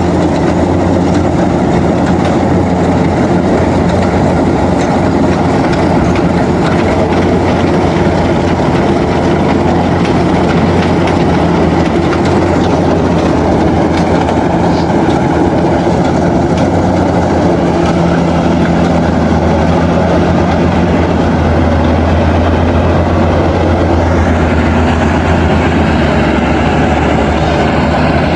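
Rice combine harvester running steadily at working speed, its engine and harvesting machinery making a loud, continuous mechanical drone.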